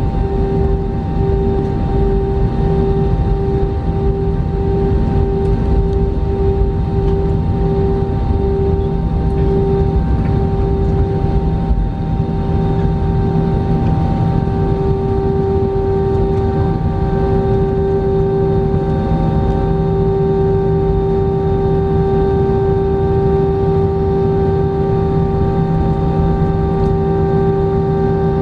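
Jet airliner engines heard inside the cabin ahead of takeoff: a steady low rumble under a droning hum. The hum throbs for roughly the first ten seconds, then holds steady without rising in pitch.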